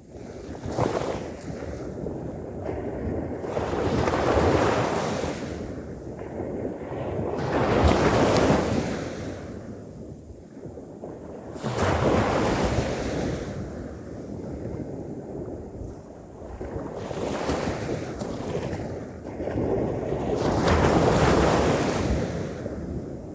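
Ocean waves breaking and washing ashore, the surf swelling and falling away every few seconds.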